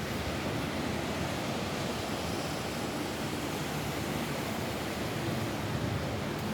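Steady rain falling on a roof: a dense, even hiss with no breaks or single drops standing out.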